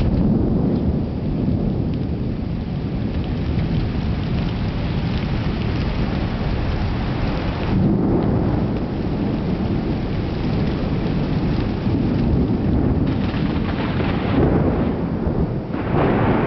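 Thunderstorm: steady heavy rain with continuous rolling thunder, which swells about eight seconds in and again near the end.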